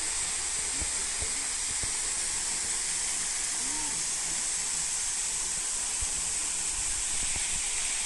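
Kurşunlu waterfall's many thin cascades falling over a mossy cliff into a pool: a steady, even hiss of falling water.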